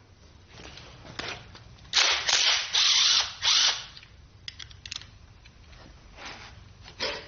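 Hand tools working on the metal parts of a Ford 351 Windsor engine block during teardown. A cluster of four loud, harsh bursts comes about two to four seconds in, with lighter clicks and knocks around them.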